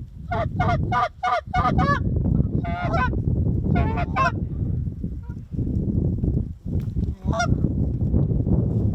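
Canada geese honking: a quick run of about six short calls in the first two seconds, then scattered pairs and single honks. A steady low rumble of wind noise runs underneath.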